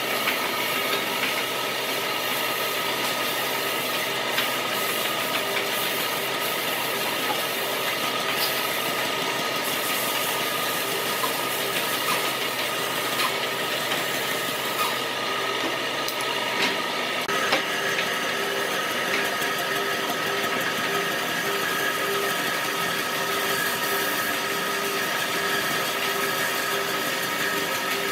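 A machine running steadily with several held tones, likely a woodworking power tool, with occasional small clicks and rattles; its tone shifts slightly about two-thirds of the way through.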